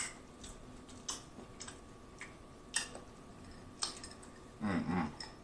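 Close-miked chewing of a mouthful of sweet corn: soft, scattered wet mouth clicks about every half second. A brief hum comes from the eater near the end.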